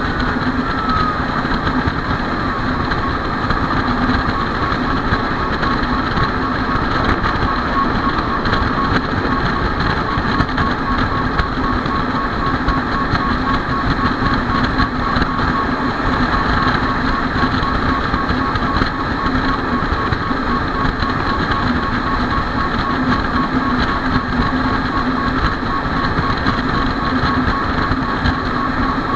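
Fire engine's engine running steadily, with a tone sliding down in pitch at the start and a fast, even pulsing tone from a few seconds in.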